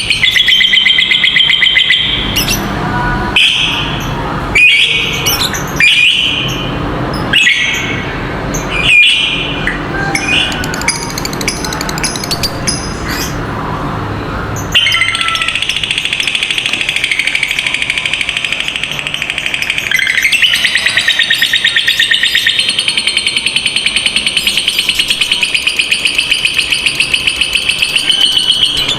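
Lovebird doing the 'ngekek' chatter: a fast, high-pitched run of repeated 'kek' notes. For the first half it comes in short bursts about every second and a half with lower sounds between, then from about halfway it runs on as one long unbroken trill.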